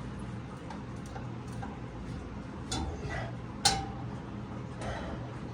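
A few sharp metallic clicks and clinks of hand tools on metal, such as a wrench or socket on the engine's crankshaft bolt, with the loudest one about two-thirds of the way through. A steady low hum runs underneath.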